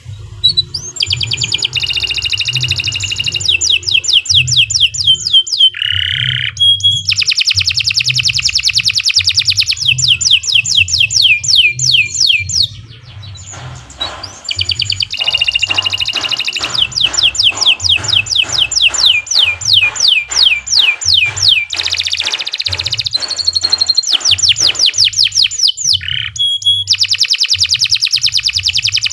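Domestic canary singing long, fast trills of rapidly repeated sweeping notes, broken by short pauses about halfway through and near the end.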